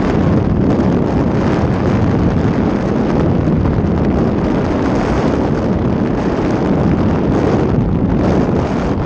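Strong wind buffeting the microphone during a paragliding flight: a loud, steady rumble that never lets up.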